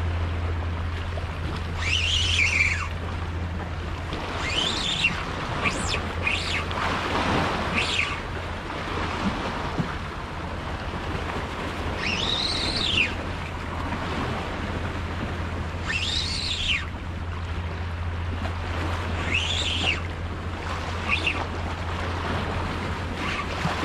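Sea water lapping with wind on the microphone, while a seabird calls several times, each call rising and then falling in pitch.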